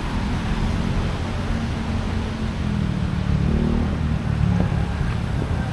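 Steady low rumble of road traffic in a busy town area.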